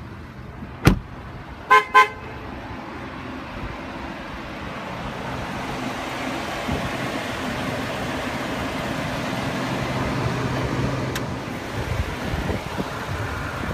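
Ford F-150's 3.5-litre V6 EcoBoost idling, with a sharp click about a second in as the hood release is pulled, then two short horn-like toots. A steady rushing noise over the idle slowly grows louder, with a few light knocks near the end.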